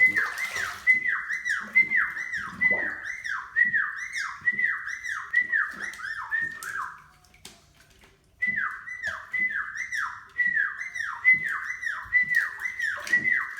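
Caique parrot giving a rapid string of short whistles, each sliding down in pitch, about two a second, in two runs with a break of a second or so in the middle.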